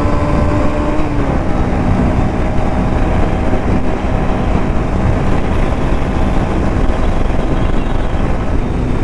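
Motorcycle running at high speed, around 100 km/h: a steady engine drone under heavy wind rush on the microphone, the engine note dropping slightly about a second in.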